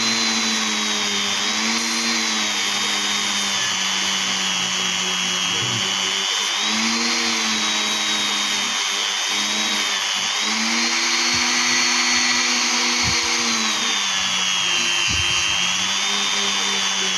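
Small handheld power tool running steadily while polishing a stone to a shine, its high motor whine rising and dipping slightly in pitch.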